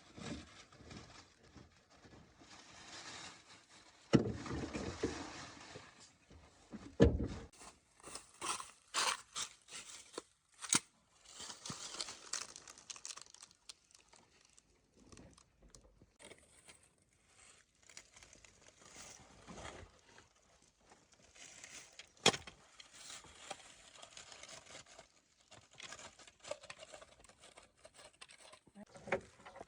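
Irregular handling noises from hands-on work: scattered knocks, scrapes, clinks and rustling. There are heavier thumps about four and seven seconds in, and sharp clicks around eleven and twenty-two seconds in.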